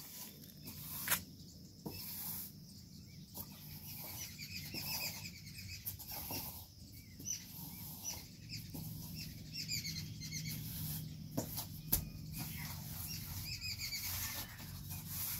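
Small birds chirping: short, high calls repeated on and off, with a few soft clicks in between.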